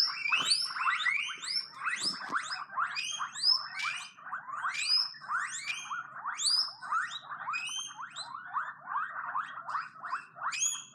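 Guinea pigs wheeking: a rapid run of high, rising squeals or whistles, about two or three a second, the excited call they give when expecting food or wanting attention.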